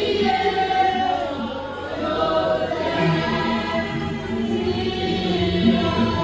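Church choir and congregation singing a hymn together, over a steady instrumental accompaniment.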